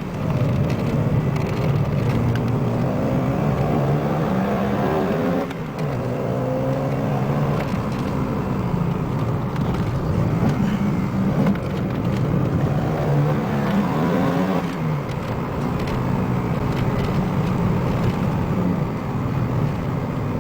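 Alfa Romeo 33 1.7 16v's flat-four engine heard from inside the cabin under hard acceleration on track. Its pitch climbs and drops back at gear changes, about five seconds in and again near fifteen seconds.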